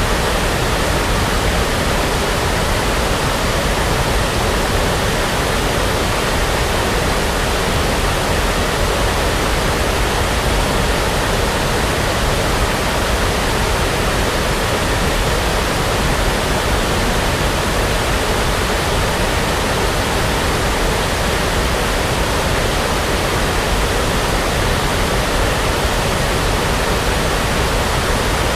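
Steady synthetic brown noise: an even, constant rushing hiss weighted toward the low end, with no changes.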